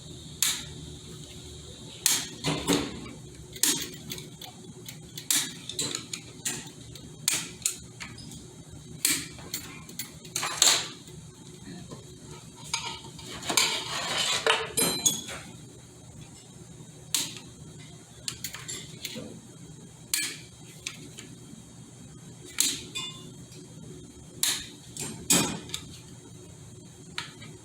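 Metal hand tools tapping and clinking against the metal parts of a Ford AOD automatic transmission being taken apart: irregular sharp strikes about every second, some ringing briefly, with a longer rattling scrape about halfway through.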